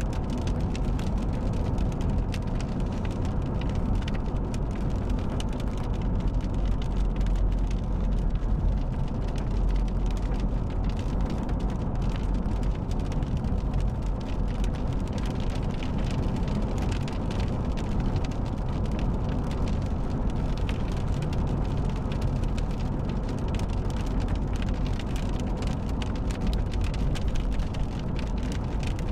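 Rain striking the roof and windshield of a moving car, heard from inside the cabin as a dense scatter of small drop hits over steady road noise.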